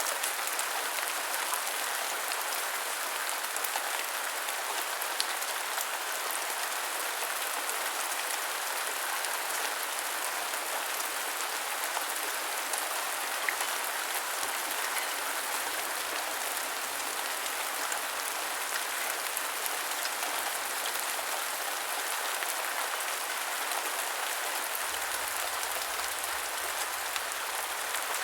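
Continuous heavy rain falling steadily, a dense even hiss full of fine drop patter, with no thunder or other sounds.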